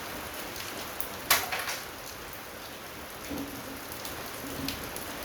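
Steady patter of rain falling on a surface, with one sharp clattering knock about a second in as scrap parts are handled.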